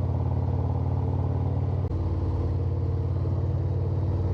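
Harley-Davidson Road Glide's V-twin engine running steadily while riding on the road, with a brief dip in the sound about two seconds in.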